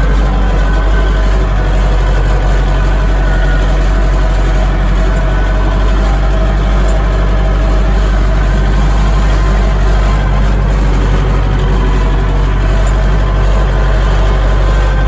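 Dongfeng DF-404 tractor's diesel engine running at a steady speed, loud and even throughout.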